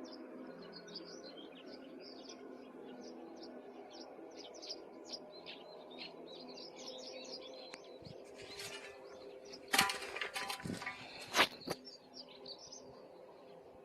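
Many small birds chirping in quick high notes over a steady low hum. About two-thirds of the way through comes a short cluster of loud, sharp crackling and rustling noises.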